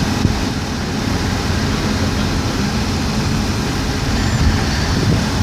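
Diesel freight train rumbling steadily, with a deep, even engine drone.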